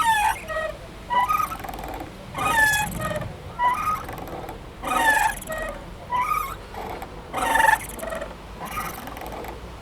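Playground swing creaking as it swings back and forth. A squeak with a gliding pitch comes about every 1.2 seconds, the squeaks alternating slightly in pitch.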